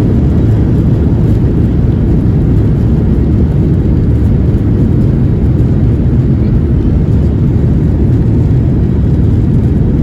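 Steady low rumble of a Boeing 737-800's CFM56-7B jet engines and airflow during the takeoff.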